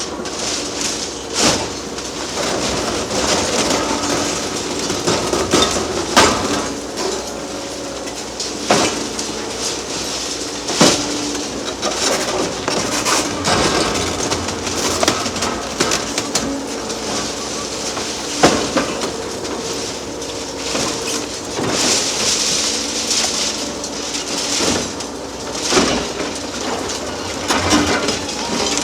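Demolition excavators breaking up a concrete bridge: diesel engine and hydraulics running steadily, with irregular sharp metallic clanks and knocks from the demolition shear working steel and concrete.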